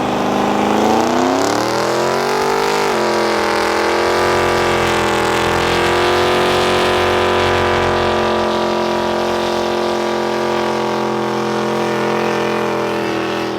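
A truck engine revved up over about three seconds, then held steady at high revs during a burnout, with the hiss of the spinning tyres over it. It cuts off at the very end.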